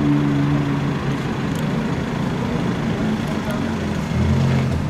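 Aston Martin DB11 engine running as the car rolls slowly through traffic: a steady low drone that drops lower and gets louder about four seconds in.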